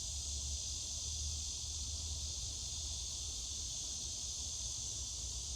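Steady high-pitched background noise with a low hum underneath, unchanging throughout.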